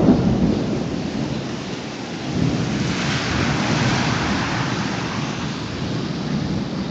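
Rain falling, with a low rumble at the start. The rain noise grows louder and brighter about two and a half seconds in.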